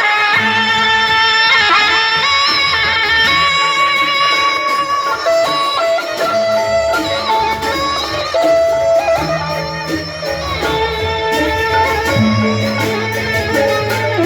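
Instrumental traditional-style music: a melodic plucked-string or guitar line over a drum accompaniment, playing continuously.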